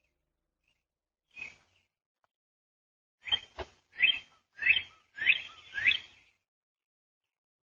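A bird chirping outdoors: one short call, then a run of five quick chirps a little over half a second apart, with a single sharp click among them.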